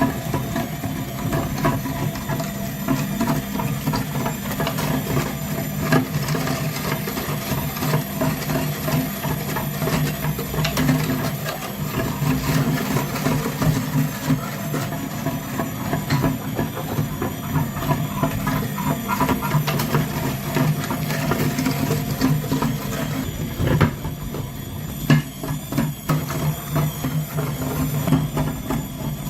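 A small motor running steadily, with rattling and knocking clicks throughout.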